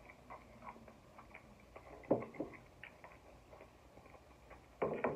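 A person eating chicken wings close to the microphone: wet chewing and lip-smacking clicks, with two louder mouth sounds about two seconds in and near the end.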